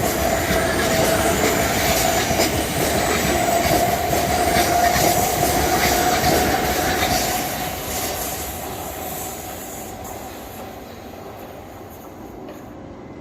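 A train running past on the tracks, its wheels giving a steady squeal over the rumble of the wheels and cars; after about seven seconds the sound fades steadily as the train moves away.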